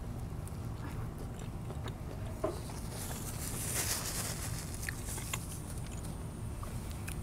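Quiet eating sounds: soft chewing with small scattered clicks, and a brief rustle about three to four seconds in, over a steady low hum.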